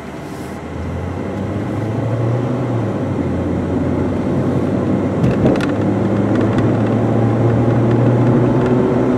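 Ford Focus sedan's four-cylinder engine pulling the car up to speed, heard from inside the cabin, with its hum and the road and tyre noise growing steadily louder as speed builds. A couple of light clicks come about halfway through.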